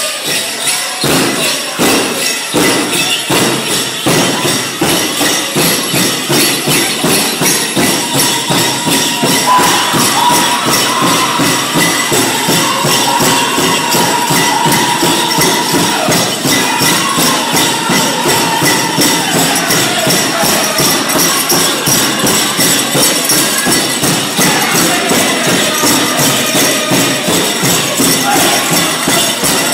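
Pow wow drum group playing a steady, even drumbeat for a grass dance, with singers coming in about a third of the way through in falling phrases. Bells jingle along with the beat.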